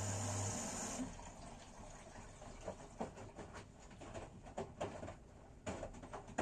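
A washing machine's steady running hum cuts off about a second in, followed by scattered light clicks and knocks.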